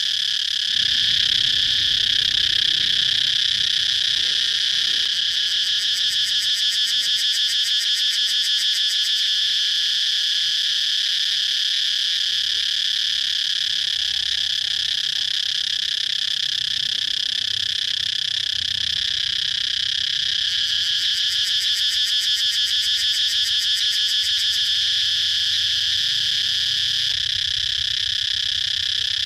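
Cicadas singing: a continuous high-pitched buzzing drone that holds steady throughout, with a faster pulsing shimmer coming in twice.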